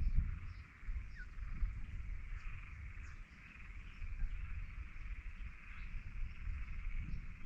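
A steady, continuous chorus of calling frogs or insects, high and even, over an uneven low rumble.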